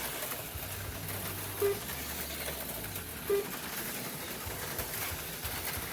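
AFX HO-scale slot cars running laps on a miked track: a steady small-motor whir with light clicking, and a short tone twice, about one and a half and three seconds in.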